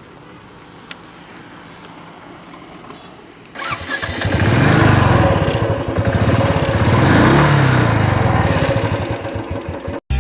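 Royal Enfield Bullet's single-cylinder engine, which comes in suddenly about a third of the way in and is revved up and back down twice, loud, then cuts off near the end. Before it there is only faint background hiss.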